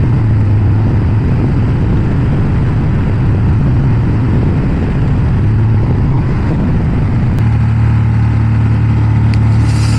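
Ducati Monster 1200's L-twin engine running under way, with a continuous rush of riding noise over it. About seven and a half seconds in, the engine note settles into a steadier hum.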